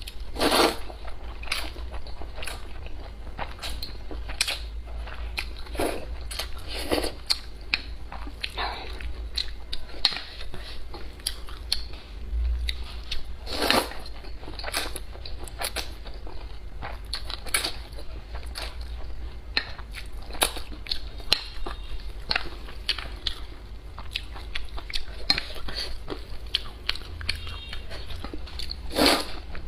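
Close-miked mukbang eating sounds: irregular chewing, biting and wet mouth smacks, with a steady low hum underneath.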